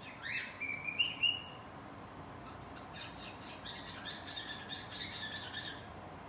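Cockatiel singing: a rising chirp and a couple of whistled notes in the first second and a half, then a run of quick chirps over a held whistle from about three seconds in.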